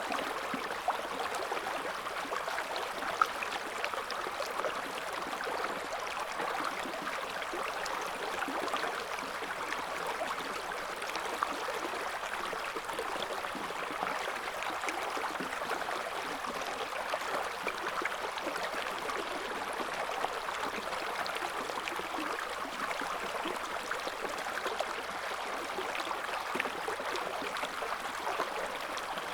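River water flowing and babbling over stones: a steady rushing with many small splashes and gurgles, and a few slightly louder splashes.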